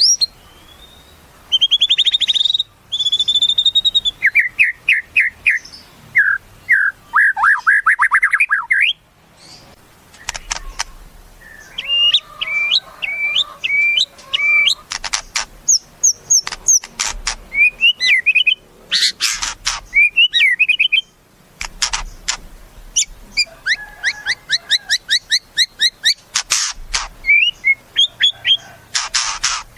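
White-rumped shama (murai batu) singing a varied song: clear whistled notes and quick slurs, fast trills, and harsh rattling phrases in quick succession, with short pauses between phrases.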